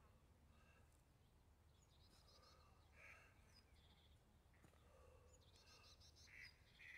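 Faint birdsong: short, repeated chirps of small birds over a low, steady outdoor rumble, all near silence.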